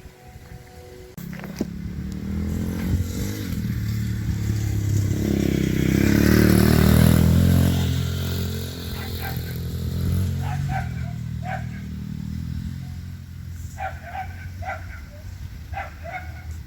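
A dirt bike's engine running, growing louder as it comes close about six to eight seconds in, then fading as it moves away. A dog barks repeatedly through the second half, more often toward the end.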